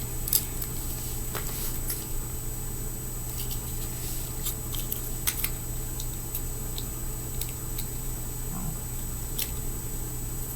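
Scattered small clicks and scratchy ticks of a blade and fingers working foam grip tape off a fingerboard deck, over a steady background hum.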